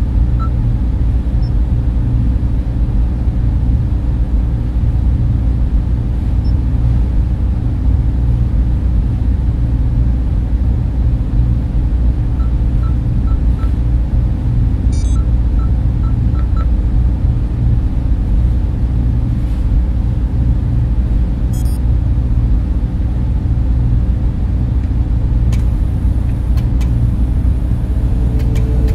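Steady low drone of a data center's server racks and cooling fans, a dense unchanging hum, with a few faint short beeps in small groups around the middle.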